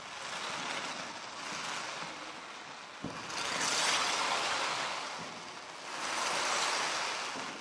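Fireworks fountains and shells hissing and crackling in rising and falling surges, loudest about halfway through, with one sharp pop about three seconds in.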